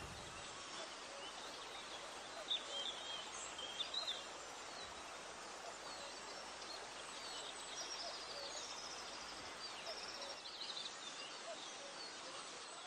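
Faint steady outdoor background hiss with a few short, high chirps, bird-like, in two scattered groups.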